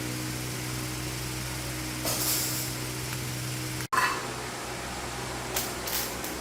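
A small engine running steadily with an even hum. It breaks off abruptly for an instant about four seconds in, with short hissy bursts around it.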